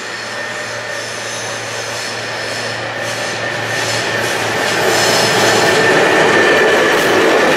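ZB HGe 4/4 101-class electric locomotive hauling a passenger train, approaching and passing close by. A steady high tone rides over the rumble of the wheels and a low steady hum, all growing louder as the locomotive draws level near the end.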